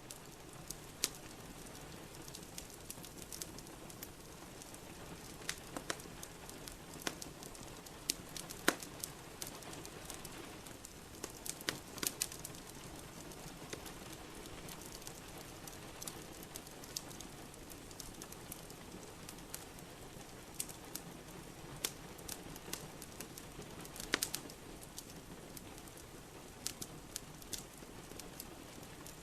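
Wood fire crackling in a fireplace, with sharp, irregular pops over a steady hiss of falling rain.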